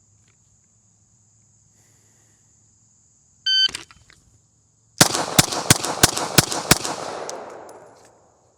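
A shot timer's start beep, then about a second and a half later a pistol bill drill: six rapid shots about a third of a second apart, the echo dying away after the last. The string runs about 3.25 seconds from beep to last shot.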